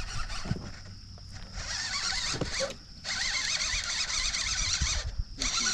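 Fishing reel being cranked to bring in a hooked bass: a steady whirring buzz in two runs, broken by a short pause about three seconds in.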